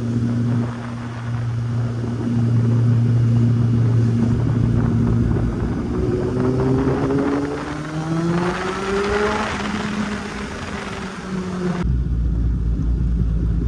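Kawasaki Z800 inline-four motorcycle engine running on the road with wind noise, holding a steady note and then accelerating with a rising engine pitch midway. The sound changes abruptly to a lower, duller engine note near the end.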